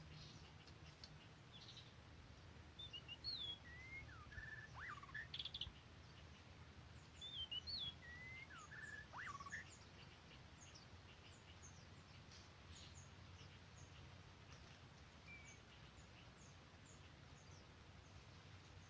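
A songbird singing the same whistled phrase of gliding notes twice, about four seconds apart. Many faint, short high chirps from other birds run under it.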